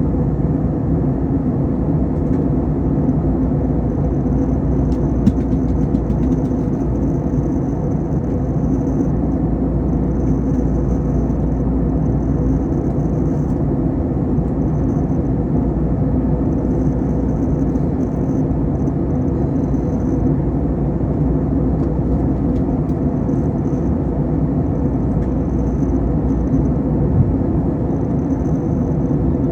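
Steady low rumble of an Airbus A321 in flight, the engines and rushing air heard from inside the passenger cabin during descent, with a faint high whine coming and going.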